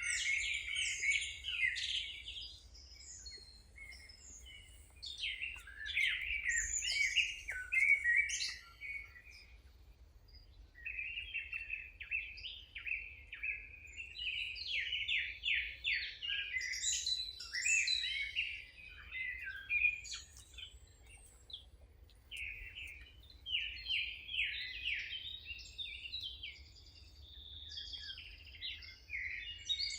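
Songbirds singing: a run of song phrases made of rapid chirps and trills, each a few seconds long with short pauses between.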